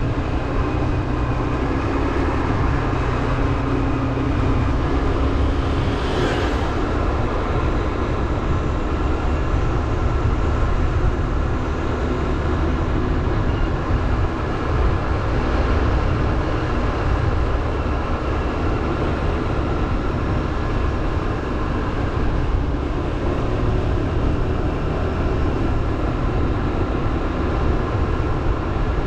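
Motorbike engine running steadily while riding, with a brief hiss about six seconds in.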